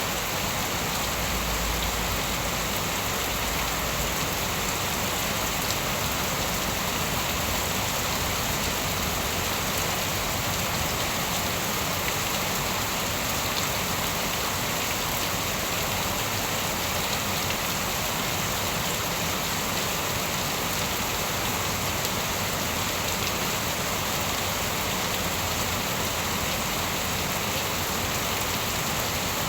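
Steady rain falling and pattering on surfaces, an even, unbroken hiss, with a brief low rumble about a second in.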